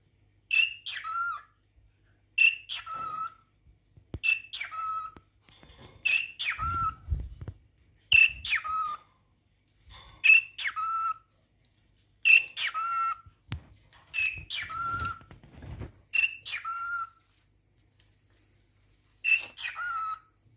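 Cockatiel giving a repeated call about every two seconds, ten times, each a sharp high note sliding down to a lower note.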